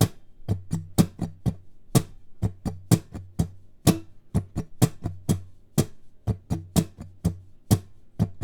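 Guitar strummed in a steady down-down-up pattern with accents, every down strum palm-muted; about four to five sharp strums a second.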